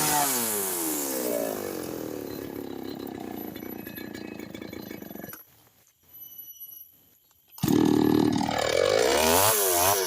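Small two-stroke chainsaw engine dropping from high revs to a lower steady run. It goes nearly silent for about two seconds, then runs loud again and is revved up and down several times near the end.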